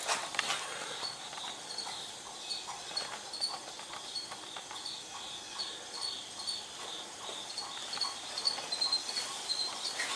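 Insects chirping in a steady high rhythm, about two chirps a second, with faint scattered clicks and taps.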